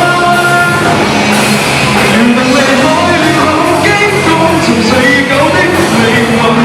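Rock band playing with a singer, the vocal line moving over steady band backing.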